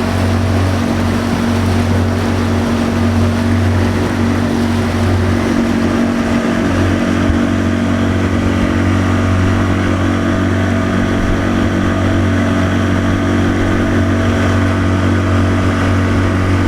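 Vehicle engine running at a steady speed, a constant low drone heard from on board while riding.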